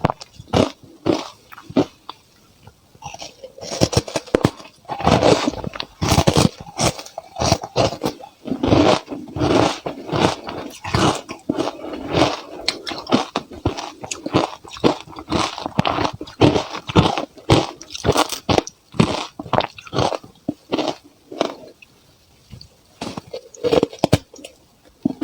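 A person biting and chewing ice cubes close to the microphone: a fast, irregular run of loud crunches, with brief lulls about two seconds in and near the end.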